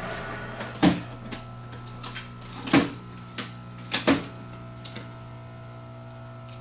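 Steady low electrical hum under a scattering of sharp clicks and knocks, about eight in five seconds, the loudest about a second in, near three seconds and twice near four seconds: hands working the milling machine's controls.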